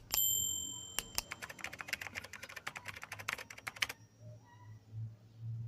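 A sharp metallic clink that rings briefly, then a quick run of rapid scraping strokes of a hair-clipper blade rubbed back and forth on a kerosene-oiled sharpening stone. The strokes stop about four seconds in.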